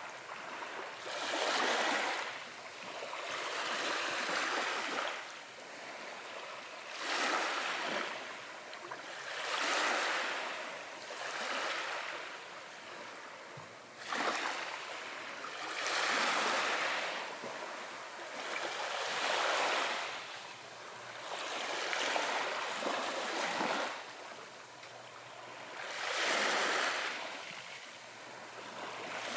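Ocean waves breaking and washing up on a beach, a rushing surge every two to four seconds that swells and then drains away.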